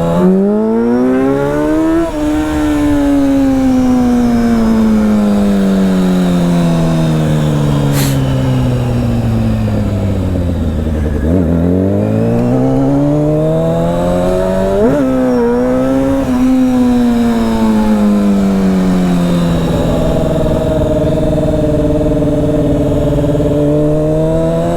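Honda CBR600 inline-four engine pulling up in revs, then winding down slowly as the bike coasts. It picks up again, gives a quick rev blip, eases off and holds steady, then climbs again near the end. A single sharp click about eight seconds in.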